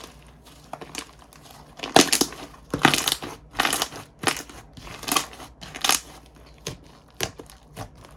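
Slime being squished and pressed by hand, giving a run of uneven, irregular bursts of sound. The bursts are strongest from about two seconds in.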